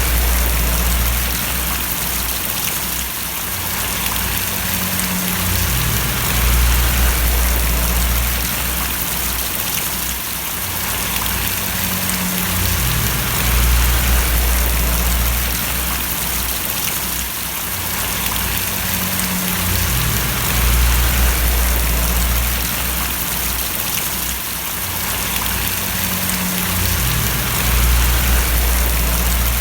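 Steady rain falling and splashing, an even hiss throughout, with a low rumble that swells and fades about every seven seconds.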